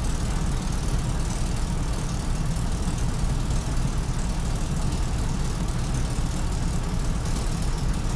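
Mercedes truck diesel engine idling steadily, a low even rumble, with cylinder number 4 not firing: the diagnostic computer reports that cylinder dead.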